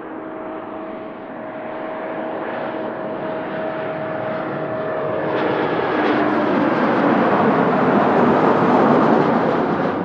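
Jet airliner passing close by, with a steady engine whine at first and then engine noise that swells to its loudest near the end and starts to fall away.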